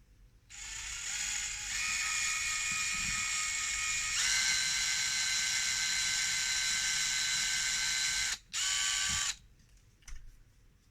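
Power drill running as it pre-drills a pilot hole in the wooden hive body: a steady whine whose pitch steps up about 4 seconds in. It stops, then gives one short second burst.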